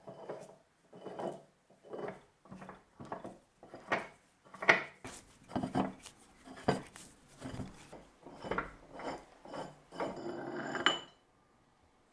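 Repeated short scraping strokes, about two a second, worked by hand over the old bench vise's metal. Near the end comes one longer scrape that finishes in a sharp click.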